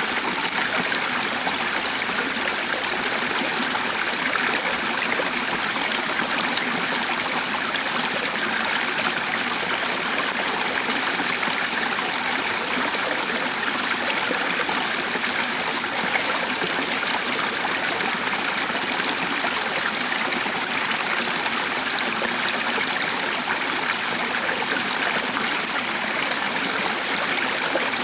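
Steady running water of a stream, an even rushing and trickling with no let-up.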